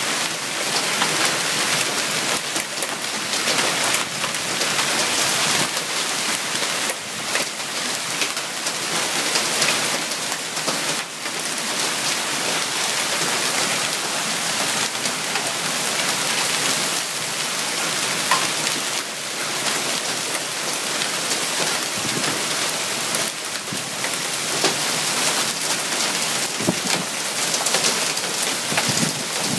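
Hail and rain pelting down in a steady dense patter, many small hits on hard surfaces sounding close together throughout.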